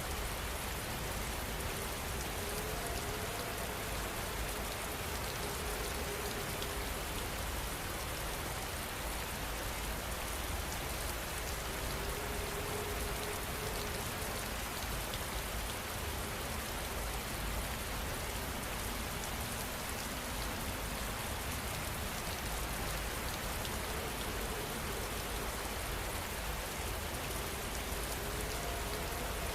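Steady rain falling, a continuous even hiss of many drops.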